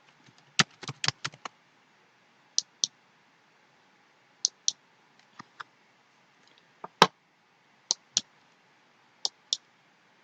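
Computer clicks while working a form on screen, mostly in quick pairs about a quarter second apart. There is a fast run of several clicks about a second in, and the loudest single click comes about seven seconds in.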